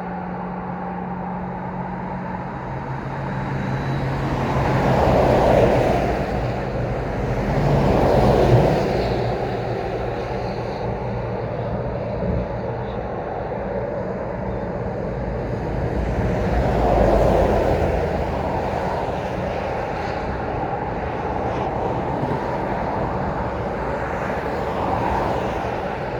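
Road traffic: several vehicles pass one after another, the loudest about five and eight seconds in and another near the middle, over a steady low engine hum.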